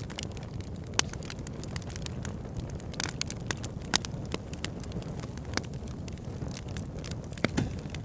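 Wood fire burning in a fireplace: a steady low rumble of flames with dense crackling. Sharper pops stand out about one, four and seven and a half seconds in.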